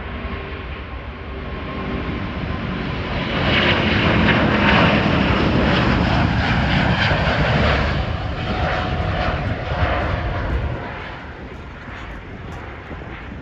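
An airliner's engines pass close by, a rushing rumble with a whine. It swells over the first few seconds, is loudest for about four seconds in the middle, then fades away.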